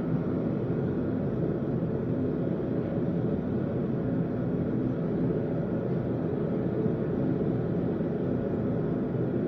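Forge running steadily: a constant low rushing noise with a faint hum in it and no hammer blows.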